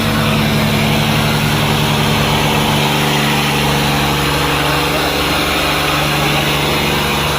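Diesel tractor engine running steadily, straining under load in a tractor tug-of-war. Its low note changes a little under three seconds in.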